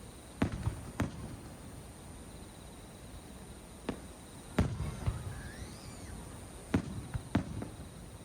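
Aerial firework shells bursting: about eight sharp bangs at uneven intervals, each trailed by a low rumbling echo. A steady high thin drone of insects runs underneath.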